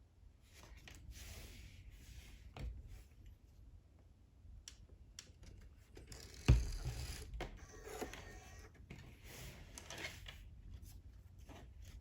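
Light handling sounds of small objects being moved about, with scattered rustles and clicks and one sharp knock about six and a half seconds in.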